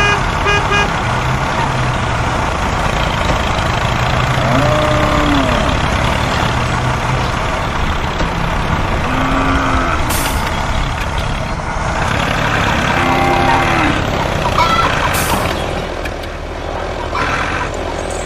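Engine running steadily. Several short calls that rise and fall in pitch sound over it, about five in all.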